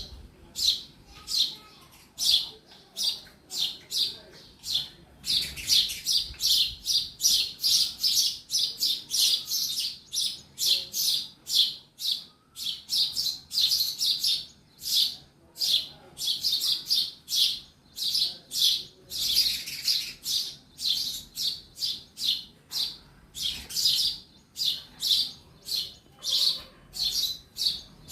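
A sparrow chirping over and over, a steady run of short, high chirps at about two to three a second.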